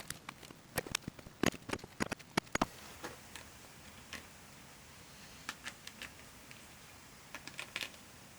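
Irregular small clicks and knocks of parts and tools being handled: a quick run of them in the first three seconds, then a few more scattered near the middle and end.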